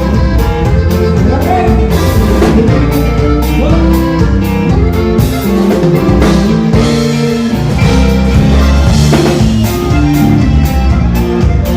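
Band music playing: a song with guitar and drums keeping a steady beat.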